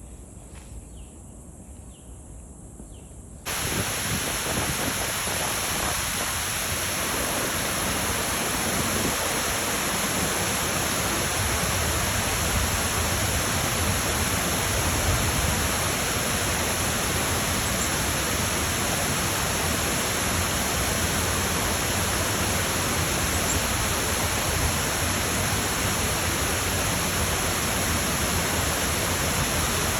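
Faint footsteps on a trail, then a sudden switch about three and a half seconds in to a loud, steady rush of flowing water close by.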